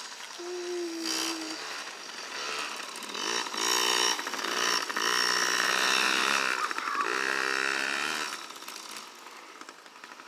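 Dirt bike engine revving and pulling up through the gears, its pitch climbing several times, loudest in the middle, then the throttle drops off about eight seconds in and the engine falls to a lower, quieter note.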